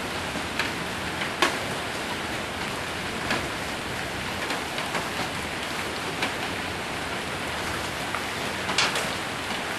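Steady heavy rain pouring on a roof, with a few sharp single knocks of hailstones striking it, the clearest about a second and a half in and again near the end.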